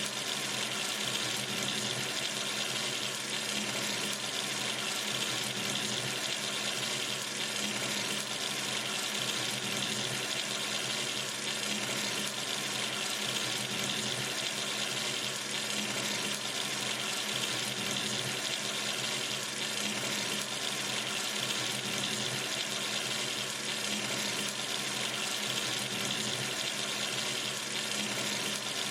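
Kitchen or bathroom sink tap running steadily, water splashing into the basin in an even hiss.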